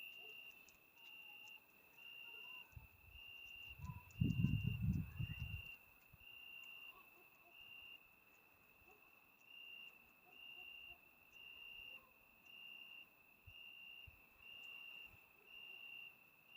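Crickets singing at night: a single high, pure-toned trill repeated about once a second, each trill lasting about half a second. About four seconds in, a brief low rumble, louder than the crickets, covers the bottom of the sound.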